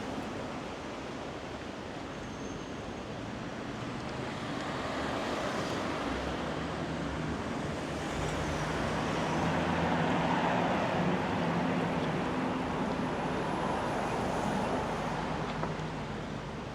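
A motor vehicle's engine hum passing slowly by, growing louder to a peak about ten seconds in and then fading, over a steady rushing background.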